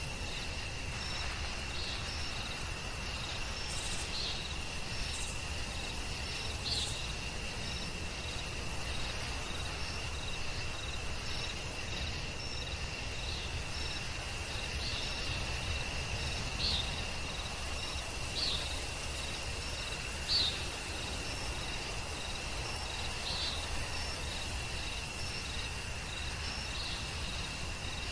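Forest ambience of crickets: a steady high insect trill, with short higher chirps every second or two over a low steady rumble.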